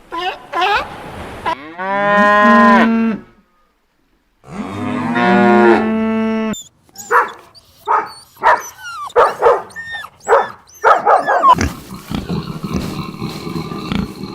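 Cow mooing: two long moos, each rising and falling in pitch. They are followed by a quick run of about ten short calls and a busier, noisier stretch.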